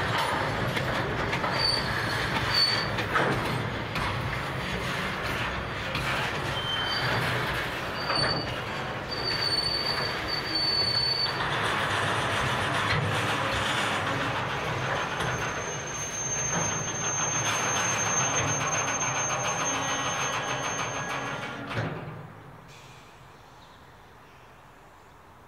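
Loaded container freight wagons rolling slowly past, the wheels rumbling and clicking over the rail joints. Short high squeals, then one long high squeal in the second half, come from the wheels as the train slows to a stop in the loop. The noise falls away sharply near the end.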